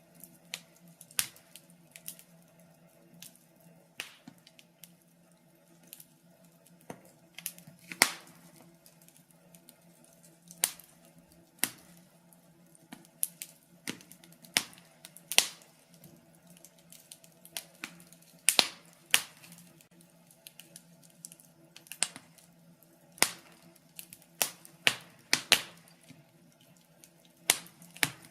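Fire in a fireplace crackling, with irregular sharp pops and snaps, some much louder than others, over a faint steady hum.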